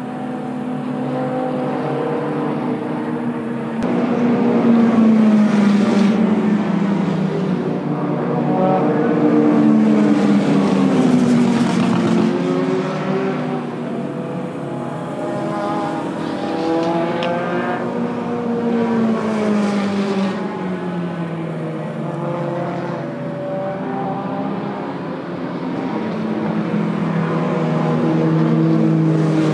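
Car engines running as vehicles pass, their pitch rising and falling several times.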